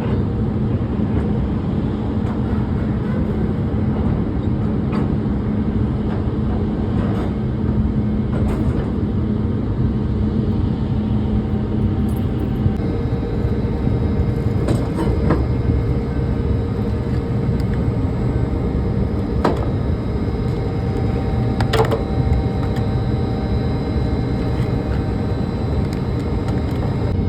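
Steady engine rumble with a constant hum, whose pitch steps up about halfway through, and occasional sharp knocks and clanks over it.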